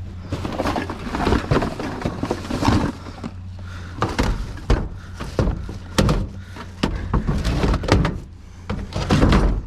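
Irregular knocks, thuds and clatter of junk being shifted and banged about inside a metal dumpster, over a steady low hum.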